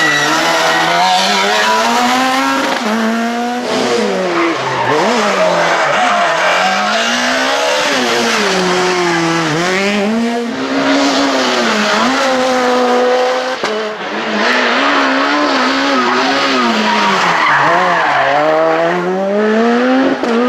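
Super 2000 rally car's engine revving hard, its pitch climbing and dropping again and again as it accelerates, brakes and shifts through the gears, with brief cuts at the shifts.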